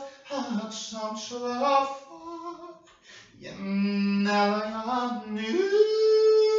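One voice singing unaccompanied in long, drawn-out notes. After a short pause near the middle it holds a low note, then steps up to a higher note held through the last second.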